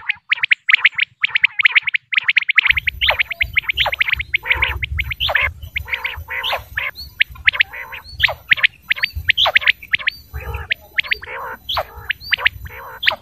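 Female common quail calling, a dense run of short, rapid chirping notes. About two and a half seconds in, the recording changes and a low rumble and faint hiss come in under the calls.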